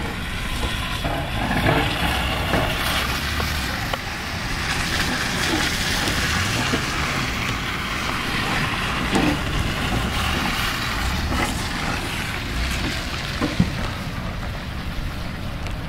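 A motor-driven machine running steadily with a loud rushing noise, its low hum briefly rising and falling in pitch about six to seven seconds in; a single sharp knock near the end.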